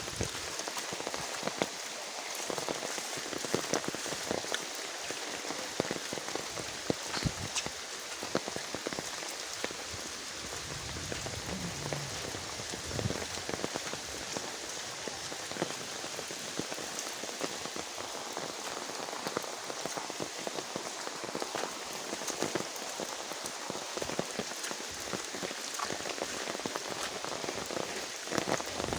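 Steady rain falling, with many separate close drop hits ticking over the even hiss of the downpour.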